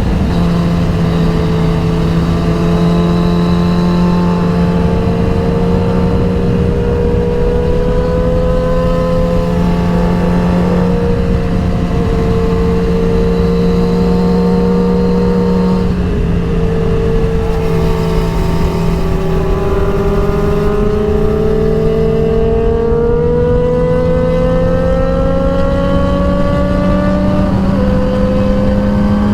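Sport motorcycle engine running at a steady cruise, its note dipping once about halfway through, then climbing steadily as the bike accelerates before settling near the end.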